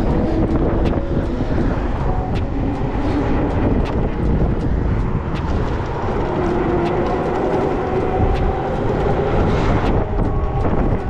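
Wind buffeting the microphone and fat-tyre road rumble from an electric bike riding at speed, with a faint electric motor whine that rises in pitch in the second half as the bike picks up speed.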